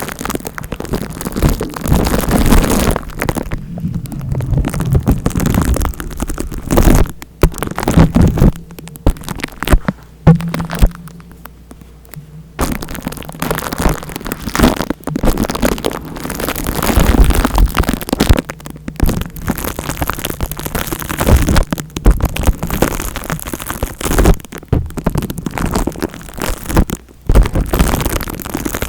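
Close-miked rubbing and scratching on the microphone, ASMR scalp-massage sounds: an uneven crackling rustle that surges and drops out for moments several times.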